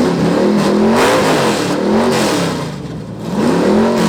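Engine revved hard again and again through a loud exhaust, its pitch climbing and falling back with each blip.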